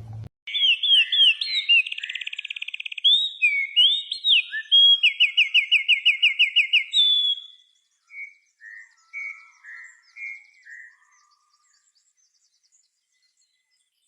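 A bird singing a varied, complex song of quick whistled slides and fast rattling trills. The song is loud for about seven seconds, then turns to softer, lower separate notes that die away well before the end.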